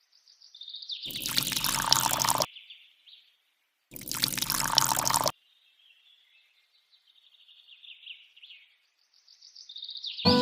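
Water pouring in two short gushes of about a second and a half each, with faint bird chirps in between.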